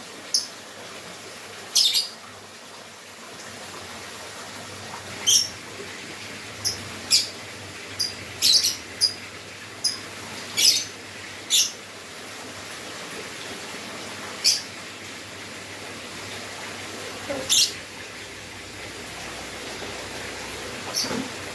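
Lovebird giving short, high-pitched chirps at irregular intervals, about fifteen calls, over a steady faint hiss.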